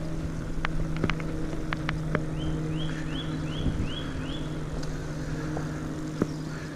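A steady low mechanical hum, like a running engine, with a few sharp clicks in the first two seconds. About two seconds in, a bird calls five short, high, repeated notes, roughly two a second.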